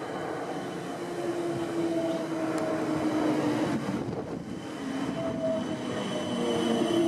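A South West Trains Class 455 electric multiple unit running into the platform past the camera. There is a steady rumble with several whining tones that slowly fall in pitch as the train slows.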